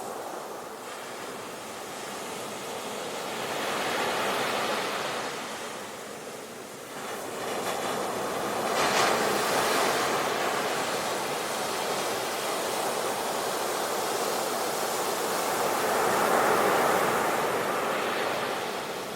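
Ocean waves breaking and washing on the shore, a steady hiss that swells and fades as each wave comes in, with the loudest surges about four, nine and sixteen seconds in.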